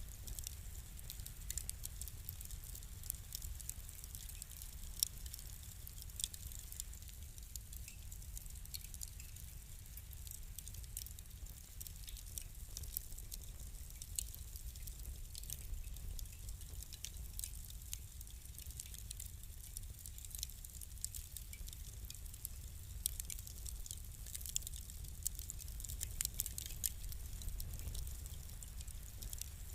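Wood fire crackling: irregular sharp pops and snaps over a low steady rumble, the snaps coming more often toward the end.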